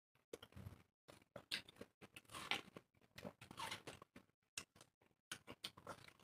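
Two people biting and chewing slices of fresh watermelon: faint, irregular crunches of bites and chewing.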